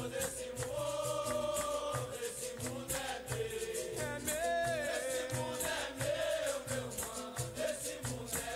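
Capoeira music: voices sing over berimbau, with a caxixi shaker keeping a steady rhythmic shake and a low drum beat.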